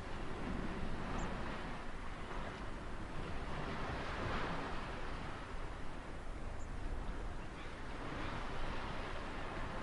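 Ocean surf: a steady wash of breaking waves, swelling about half a second in and again around four to five seconds.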